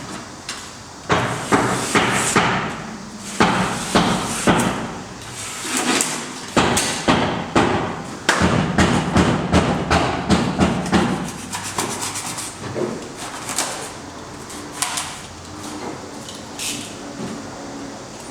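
Hammering: a run of sharp knocks, often several a second, most frequent between about six and eleven seconds in, then thinning out to a few quieter knocks.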